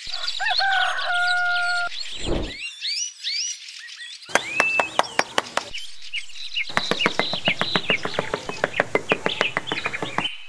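Farmyard bird ambience. A rooster crows in the first two seconds, and small birds chirp throughout. A low thud comes about two seconds in, and a quick run of short clicks, about four a second, fills the second half.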